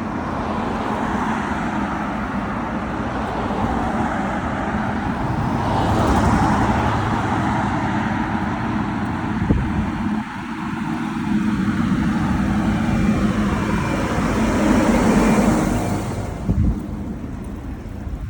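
Road traffic: motor vehicles passing close by, their engine and tyre noise swelling about a third of the way in and again near the end, with a couple of short sharp knocks.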